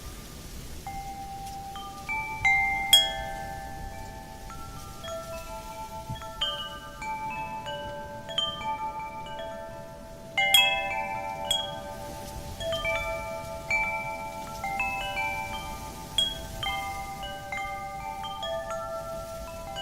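Wind chimes ringing as the wind knocks them, many clear tones struck at irregular moments and ringing on, with louder clusters of strikes about 3 seconds and 10 seconds in. A faint wind noise underneath.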